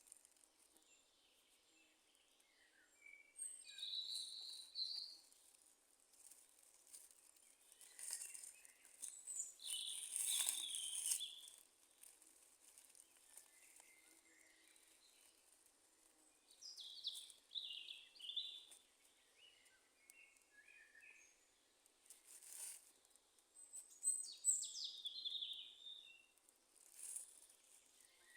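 Wild birds in a beech forest singing in short chirping phrases, four bursts of song with quiet gaps between, and a few faint pops from a small campfire.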